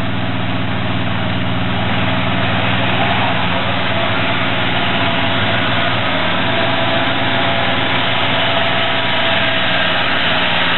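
An engine idling steadily, with a faint higher whine coming in about four seconds in.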